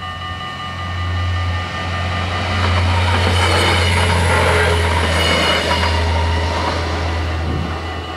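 Arriva GTW diesel railcar coming up to and passing a level crossing. Its noise swells and is loudest about halfway through, over the steady ringing of the crossing bells.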